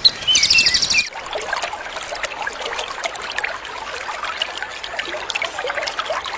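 A songbird's fast high trill and a few whistled notes, cut off about a second in by water trickling and bubbling, a dense patter of little blips.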